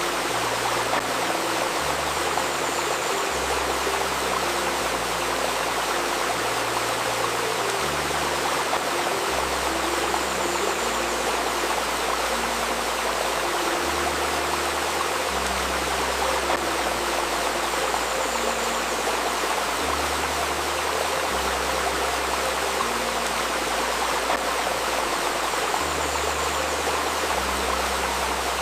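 A river babbling steadily, layered with soft, low sustained tones that move to a new note every second or two.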